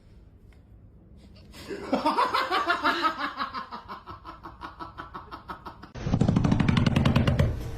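Laughter in quick repeated pulses with a wavering, falling pitch, followed about six seconds in by a louder, lower buzzing sound.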